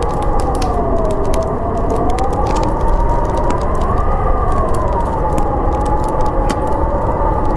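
Howling wind, a whistling tone that slowly swells and sinks in pitch over a steady low rumble, with a wood fire crackling in many sharp pops.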